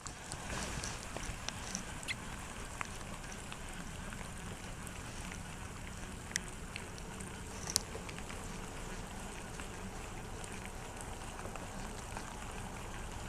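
Steady outdoor hiss of open-air ambience on a fishing boat, with a few sharp ticks, the clearest about six and eight seconds in.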